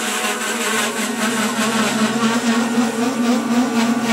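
Double-decker electric passenger train running with a steady electric hum: a low held tone with several higher tones above it, growing slightly louder.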